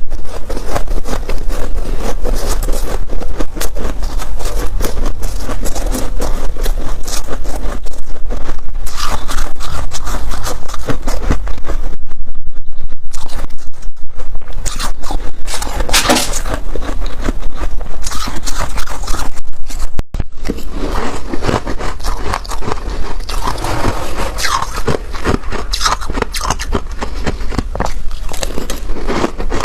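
Freezer frost being scraped and crunched close to the microphone: dense, scratchy crackling that goes on without pause and gets a little quieter after a short break about twenty seconds in.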